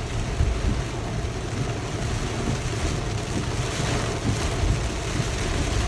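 Steady noise inside a moving car: a heavy low rumble with hiss across the range, the sound of road and wind noise while driving.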